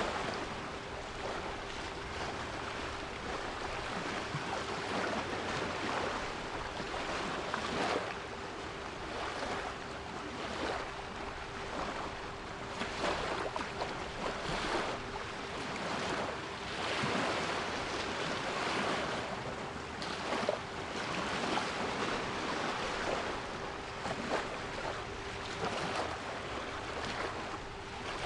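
Sea waves washing in and receding in repeated surges, with a steady 396 Hz pure tone held underneath.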